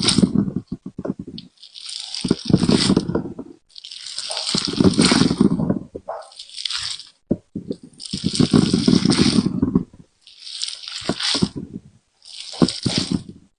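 Soft jelly being squeezed and popped, a run of about seven wet squelching sounds, each lasting one to two seconds with short pauses between.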